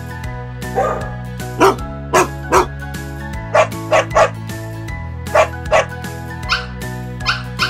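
A dog barking about a dozen times, in quick twos and threes, over steady background music.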